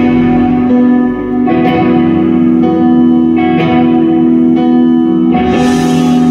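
Music: an instrumental passage of guitar chords struck and left ringing with reverb, a new chord every couple of seconds, with no singing.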